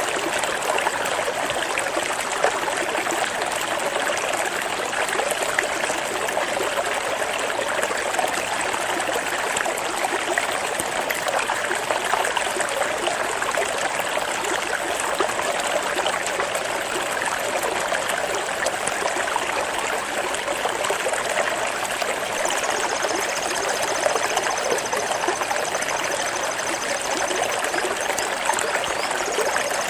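Water flowing and trickling steadily, like a small stream, an even rushing babble. A faint high, wavering trill sounds over it for a few seconds near the end.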